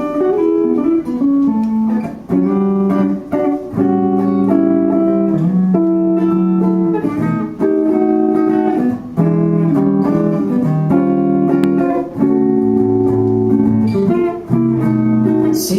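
Guitar playing an instrumental break between sung verses, picking melodic notes and chords that change every half second or so.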